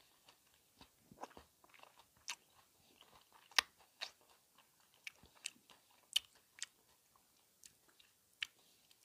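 Faint, irregular wet mouth clicks and smacks of a person chewing soft kiwi fruit, with a few sharper clicks.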